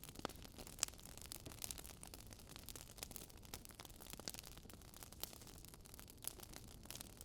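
Wood fire crackling softly: irregular small pops and snaps of burning logs over a faint low hiss, with one sharper pop about a second in.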